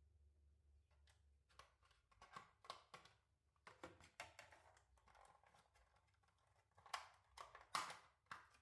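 Faint, irregular taps, clicks and rustles of kitchen items being handled during food preparation. They start about a second in, with the sharpest knocks near the end.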